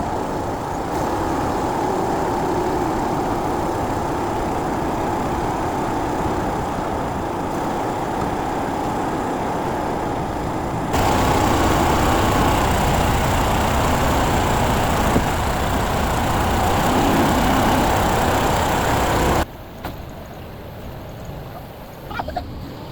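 Heavy truck crane's diesel engine running steadily. It gets louder about halfway through, then cuts off abruptly near the end, leaving faint clicks.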